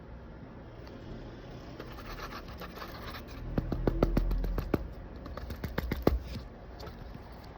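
Pen or pencil scratching across paper in quick drawing strokes. About three and a half seconds in it grows louder, with a run of sharp taps and a low bump, and a few more taps come near six seconds.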